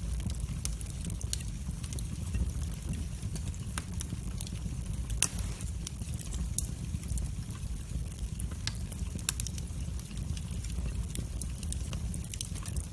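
Wood fire burning in a fireplace, with a steady low rumble and irregular sharp crackles and pops, one louder pop about five seconds in.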